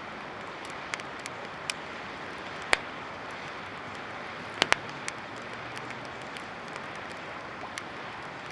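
Wood campfire crackling: scattered sharp pops, the loudest a little under three seconds in and a close pair about halfway through, over a steady rushing hiss.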